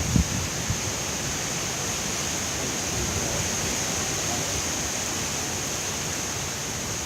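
Hurricane-force wind blowing steadily, an even rushing noise with no gusts or breaks.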